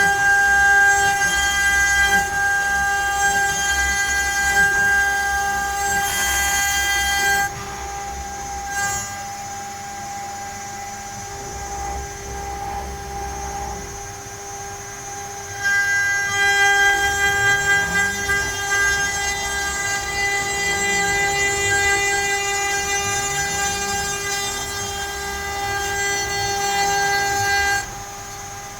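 CNC router cutting letters in pine, its spindle giving a steady high whine made of several fixed tones. The whine drops in level from about a quarter of the way in until just past halfway, then comes back. In the second half, lower whines rise and fall in pitch as the axis motors speed up and slow down along the cut.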